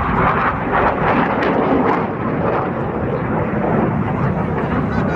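Loud, steady rushing jet noise from F/A-18 Hornet fighters' General Electric F404 turbofan engines in flight.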